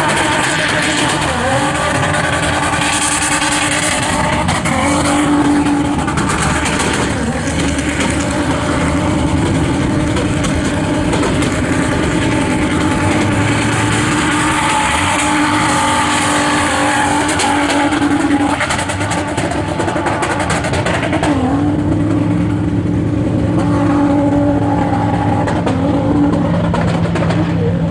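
Manual-gearbox car engine revving hard, its note rising and falling, with tyres squealing as the car drifts.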